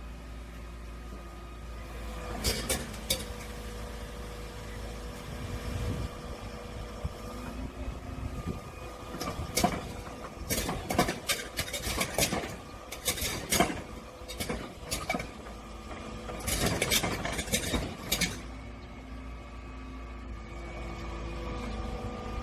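Excavator engine running steadily, with sharp metallic clanks and knocks that come a few at a time early on and then in a dense run through the middle.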